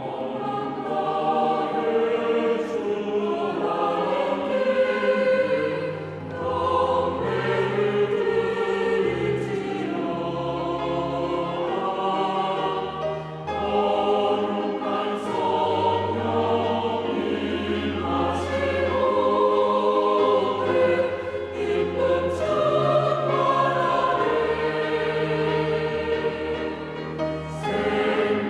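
Church choir singing a sacred anthem in parts, with steady held low notes underneath.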